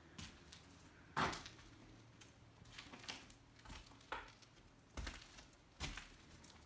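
Faint, irregular footsteps crunching and cracking over debris on a decaying wooden floor: a few scattered crunches, the loudest about a second in.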